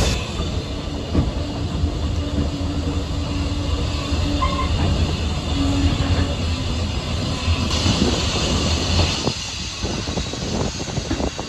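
Railway carriage running along the track, heard from on board: a steady rumble of wheels on rail, turning into a run of knocks as the wheels cross rail joints near the end.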